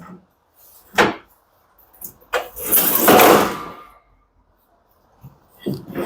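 Tumble dryer's sheet-metal panels and parts being handled during disassembly: a short knock about a second in, then a longer scraping rattle lasting about a second and a half.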